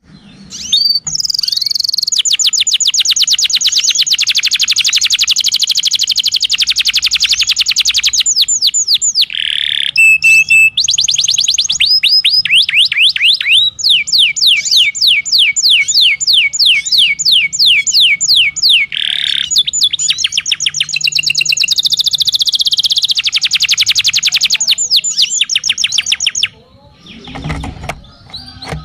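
Canary singing long rolls of rapidly repeated high notes, switching from one roll to another every few seconds, as masteran training song meant to get reluctant canaries singing. The song breaks off near the end, leaving fainter, lower sounds.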